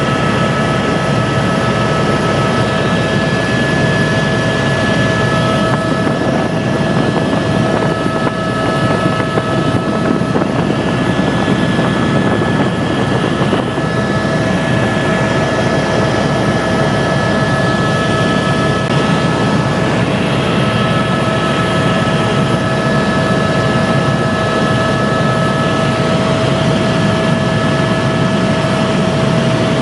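Helicopter running steadily, heard from on board: a loud, even roar with several constant whining tones.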